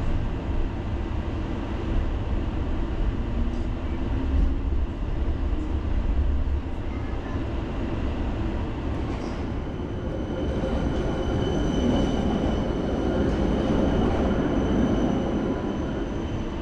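Helsinki city tram running along its rails, heard from inside the car: a steady low rumble, with a faint high whine joining about ten seconds in.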